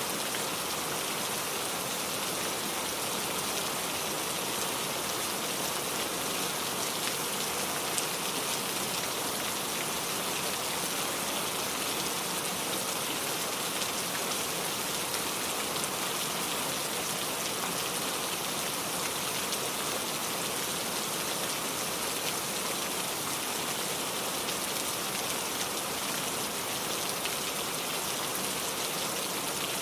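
Steady rainfall: a continuous even hiss of rain with many fine drops pattering on surfaces.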